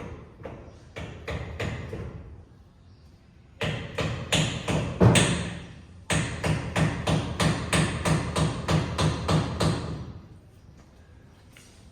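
Repeated hammer-like knocks, in short bursts at first, then a steady run of about three or four blows a second for some four seconds before stopping.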